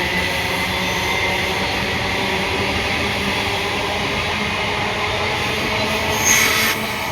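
Train running on the track, a loud steady rumble and rush of wheels, with a brief high squeal about six seconds in.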